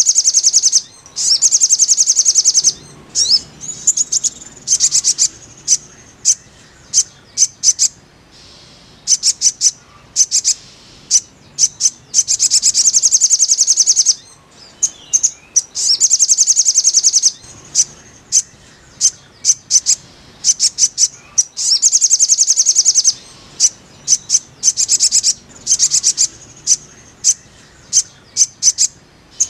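Little spiderhunter (sogok ontong) song: loud, high runs of rapidly repeated sharp notes, each run lasting a couple of seconds, alternating with scattered single chips.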